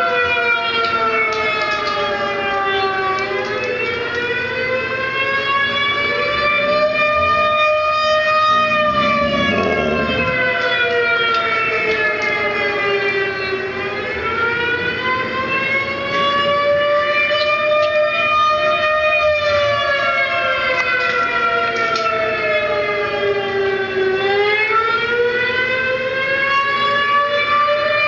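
Recorded wailing siren played through computer speakers, its pitch sliding slowly up and down in long cycles of about ten seconds each.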